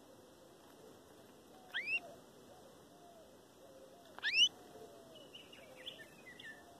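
Birds calling: two loud, rising whistled calls about two and a half seconds apart, then a quick run of softer chirps near the end, with faint lower notes underneath.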